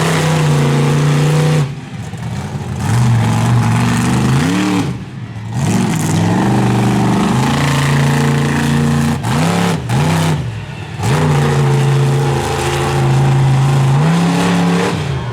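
Monster truck engine revving hard, held at high revs for long stretches, with brief lifts off the throttle and quick up-and-down blips about five and ten seconds in.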